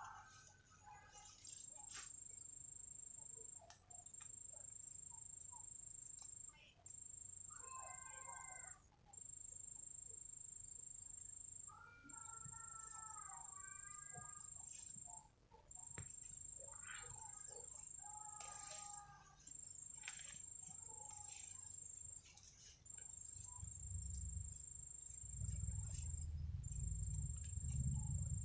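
An insect's high, steady buzzing trill in long phrases of one to three seconds separated by short breaks, with a few bird calls in between. Wind rumbles on the microphone over the last few seconds.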